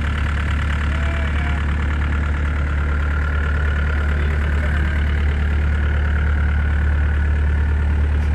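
Diesel engine of a 2009 Gehl 603 compact excavator running steadily at an even speed.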